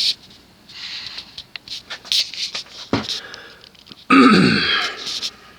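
Scattered short scraping and ticking noises, then a person clears their throat loudly about four seconds in.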